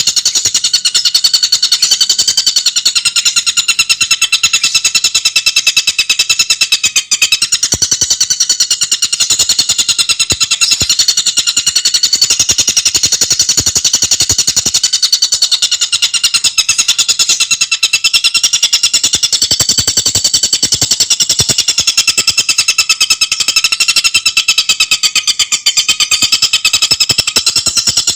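Tengkek buto bird singing a fast, unbroken high-pitched trill, its notes packed tightly together with no pauses.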